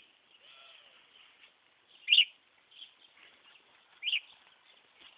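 Budgerigar giving two short, sharp chirps about two seconds apart.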